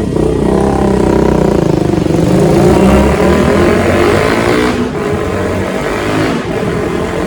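Motorcycle engine with a freshly fitted aftermarket exhaust, ridden and revved. The pitch climbs to its loudest around three seconds in, then eases off shortly before the sound cuts off.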